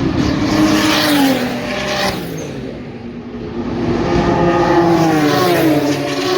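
Race cars passing at speed with engines at high revs. Twice the engine sound swells and its pitch drops as a car goes by: about a second in, and again around five seconds in.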